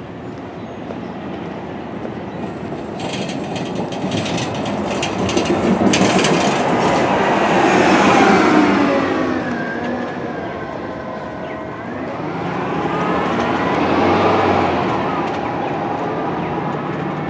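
Passing vehicle traffic swelling twice, loudest about eight and fourteen seconds in. A motor whine falls in pitch, then rises again.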